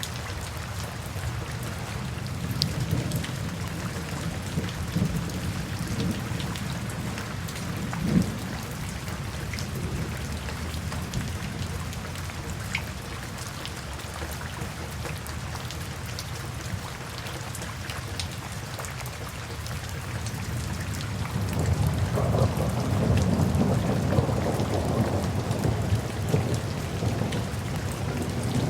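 Steady rain falling, with scattered close drops ticking on a surface. About three-quarters of the way in, a low rolling rumble of thunder builds and grows louder.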